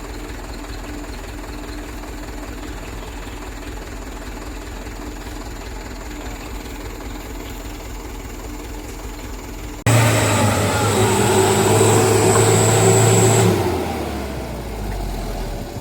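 Mitsubishi Canter HD 125PS truck's diesel engine running steadily at low revs. About ten seconds in it suddenly turns much louder, running hard with a high whine for about three and a half seconds, then drops back down.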